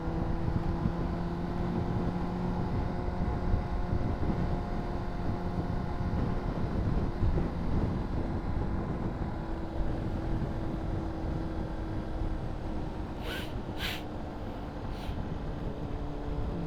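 Honda CBR600RR inline-four engine running at a steady engine speed, with a low rush of wind and road noise. Three short high hisses come in near the end.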